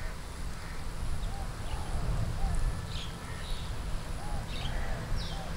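Birds calling intermittently, short arched calls and high chirps every half second or so, over a steady low outdoor rumble.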